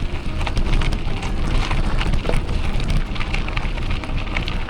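Electric mountain bike rolling over a rough, bumpy woodland track: a steady crackle of many small clicks from the tyres over the ground, over a low rumble.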